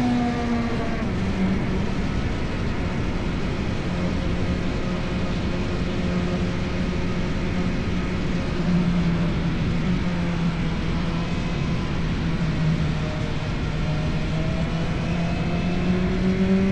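Motorcycle engine through an Akrapovic exhaust, dropping in pitch right at the start, then holding steady revs, and climbing again near the end.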